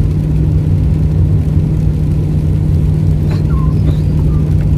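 Honda CR-V engine working hard under load while climbing a steep mountain highway: a steady low drone with road noise.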